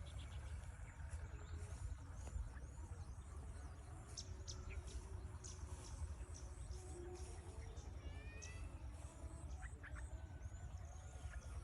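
Small birds chirping repeatedly in short high notes, with a quick series of falling notes about eight seconds in, over a steady low rumble.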